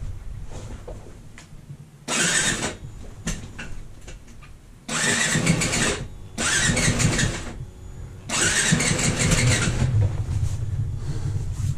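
Snowbike engine sounding in four loud bursts of a second or so each, with quieter running between them.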